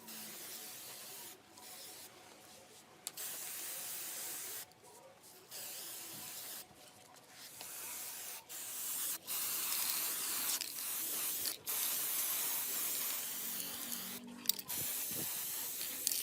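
Spray paint hissing in a run of sprays broken by short pauses, as the body of a children's ride-on car is repainted.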